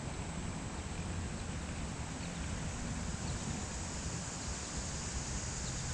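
Steady outdoor noise of creek water flowing, with wind rumbling on the microphone.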